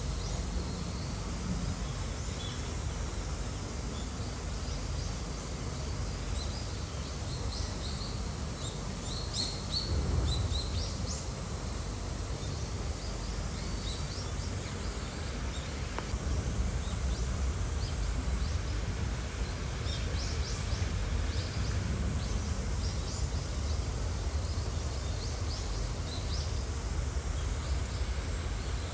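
Outdoor ambience: a steady low rumble and hiss, with small birds giving short high chirps now and then, busiest about eight to eleven seconds in.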